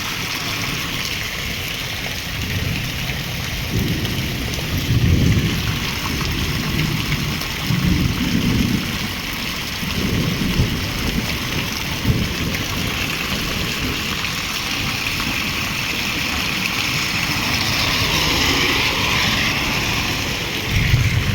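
Steady heavy rain, with low rumbles of thunder swelling and fading several times, the strongest about four to six seconds in.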